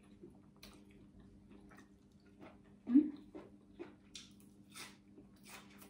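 Close-mouthed chewing of crisp fresh greens (lettuce leaf and herbs), a string of short crunches that comes thicker in the second half. There is one brief, louder low sound about three seconds in, and a faint steady hum underneath.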